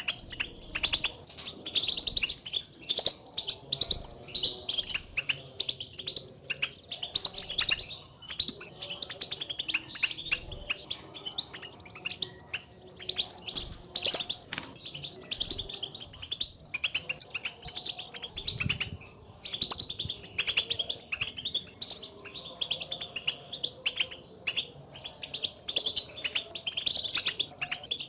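European goldfinches giving their twittering contact calls: a fast, unbroken chatter of short, high chirps. This is the call that goldfinches use to call to one another, and it is played to stir a caged goldfinch into song.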